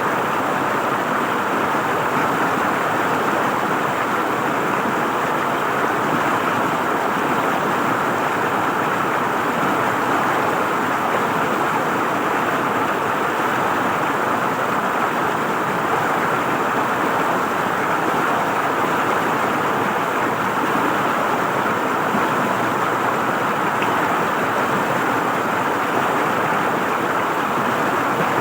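River water flowing and gurgling over stones, a steady rushing noise that holds an even level throughout.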